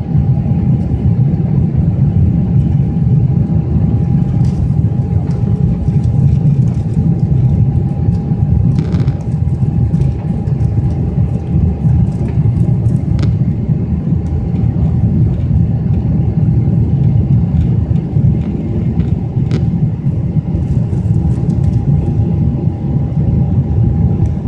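Boeing 777-300ER's GE90 jet engines running steadily, a constant low rumble with a steady whine above it and a few faint clicks.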